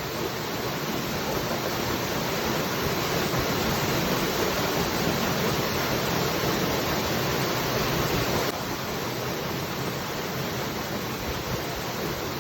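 Steady rushing of a waterfall, easing slightly in level about eight and a half seconds in.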